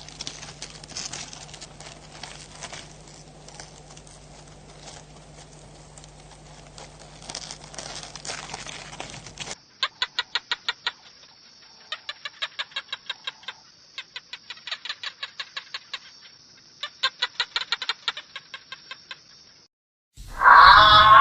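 Chickens clucking, in two short clips: the first with a steady low hum under scattered noises, the second with quick runs of clucks in several bursts over a steady high whine.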